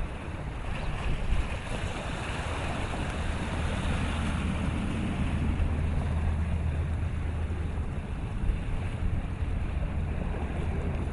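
Wind buffeting the microphone over rushing water, with a steady low rumble underneath that swells for a few seconds in the middle.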